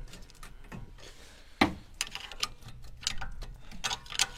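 Scattered metallic clicks and clinks of hand tools working on a car's brake caliper as it is unbolted, with one sharper knock about a second and a half in and quicker clicking near the end.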